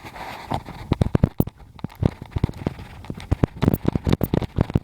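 Footsteps crackling and crunching in quick, irregular succession, several sharp crackles a second.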